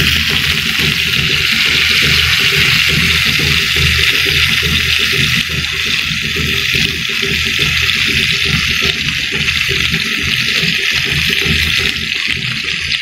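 Meat-stuffed tomatoes frying in hot oil in a pan, a loud, steady sizzle.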